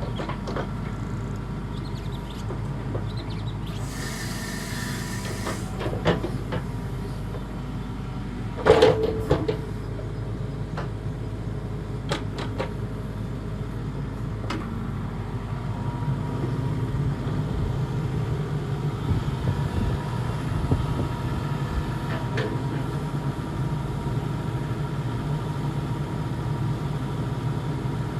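Hitachi ZX85US-3 midi excavator's diesel engine running steadily, with several metallic clanks from the machine, the loudest about nine seconds in, and a short hiss around five seconds in. The engine runs louder from about sixteen seconds in.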